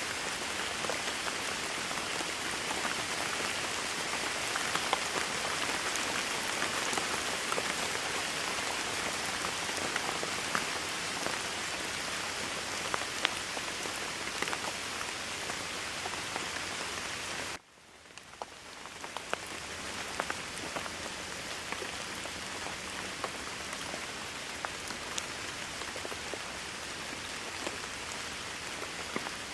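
Rain falling steadily, an even hiss dotted with the ticks of individual drops. A little past halfway it cuts out abruptly for a moment, then swells back in over a couple of seconds.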